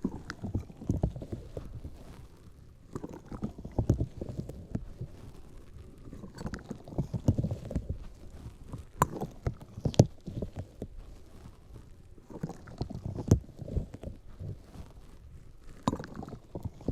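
Close-miked ASMR handling sounds: bursts of low rustling and scratching against the microphone, every second or two, with sharp clicks scattered through.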